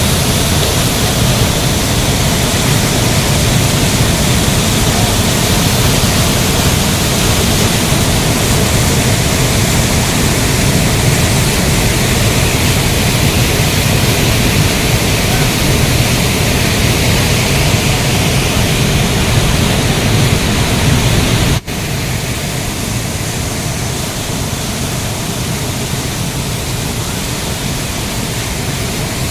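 Steady, loud rush of a large waterfall. It breaks off for an instant about two-thirds through and carries on slightly quieter.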